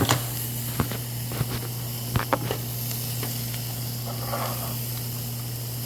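Meat sizzling on a grill, a steady hiss over a constant low hum, with a few light clicks of utensils in the first couple of seconds.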